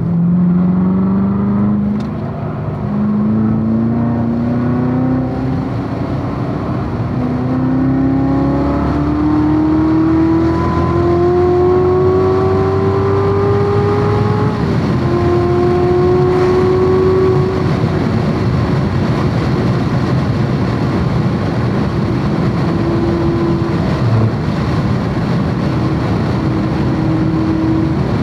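Supercharged LT4 V8 of a C7 Corvette Z06 under hard acceleration on track, its pitch climbing through the gears with three upshifts. After about eighteen seconds it eases off to steadier, lower part-throttle running.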